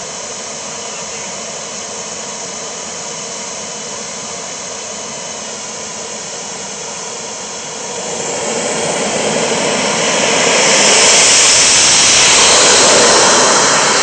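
Model turbine jet engine of a 1/4-scale F-16 running, a steady rush with a thin whine over it. About eight seconds in it spools up, growing louder and hissier over a few seconds, then holds at high power.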